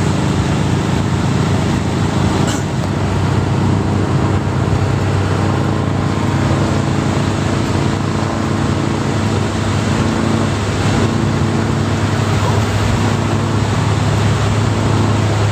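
Vehicle engine running at a steady speed with a constant hum over continuous tyre and road noise, heard from a moving car on a highway.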